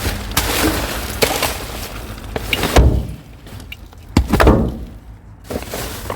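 Junk being rummaged through by hand: irregular clattering knocks and rattles as items are shifted and pulled about, with the heaviest knocks about three and four seconds in.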